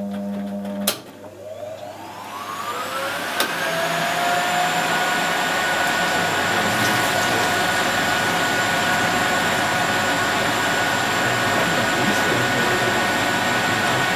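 Zanussi Z913 washing machine's drum motor spinning up into a spin: a click about a second in, then a whine that rises in pitch for a few seconds and settles into a steady high-speed spin whine.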